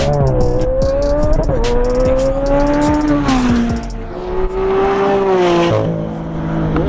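A supercar's engine accelerating hard through the gears. Its note climbs steadily and drops sharply at each upshift, about three shifts in all.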